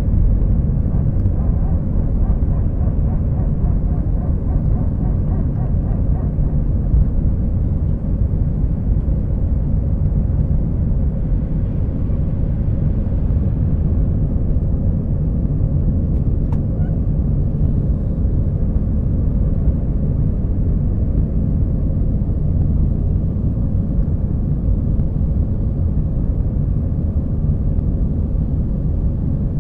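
Steady low roar of an airliner's jet engines and rushing air, heard inside the passenger cabin during the climb after takeoff.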